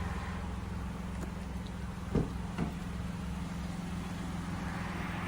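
Steady low hum of a car engine idling, with two faint short sounds about two seconds in.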